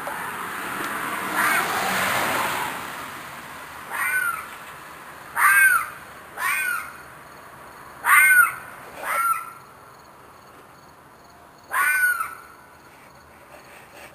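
An animal outdoors at night giving short, shrill screams, each falling in pitch, six times at uneven gaps of one to three seconds. A soft rushing noise fills the first couple of seconds.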